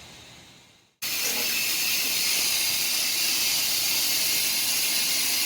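Compressed air hissing steadily into a tire through an air chuck, starting abruptly about a second in.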